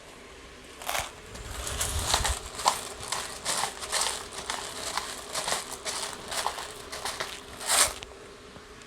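Black pepper being added to a bowl of ramen: a run of quick, gritty crackling bursts that starts about a second in and stops near the end.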